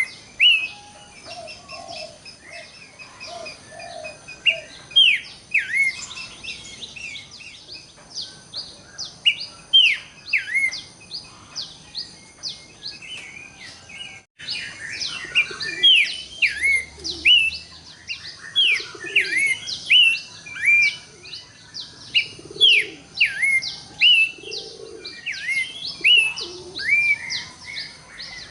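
Horsfield's babblers (pelanduk semak, cingcoho) calling: many short, sharply falling whistled notes from several birds overlapping, busier in the second half, with soft low notes underneath. The sound cuts out for a moment about halfway through.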